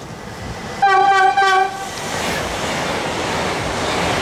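Alstom Pendolino high-speed train sounding two short horn blasts close together, followed by a building rush of wheel and air noise as it passes at speed.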